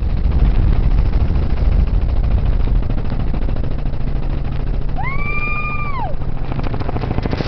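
Helicopter running in flight, a loud steady rotor and engine drone with wind noise. About five seconds in, a high-pitched held cry, like a passenger's 'whoo', lasts about a second.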